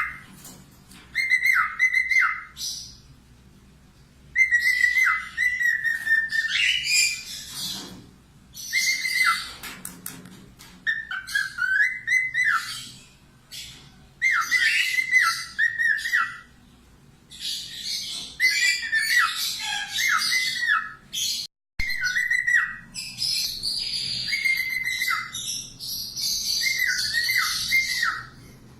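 Pet parrot singing: repeated whistled phrases, each a held whistle that steps down and warbles, mixed with fast, scratchy high chatter. It comes in bursts of a few seconds with short pauses between them.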